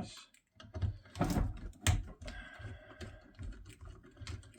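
Irregular clicks and knocks of small parts and tools being handled on the boiler during disassembly, with two sharper knocks about a second in and shortly before the two-second mark.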